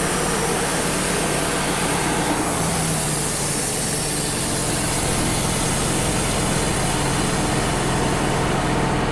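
Wood-Mizer LT35 portable sawmill running steadily, its band blade sawing a pin oak log while the sawdust blower runs, a continuous mix of engine noise and high hiss.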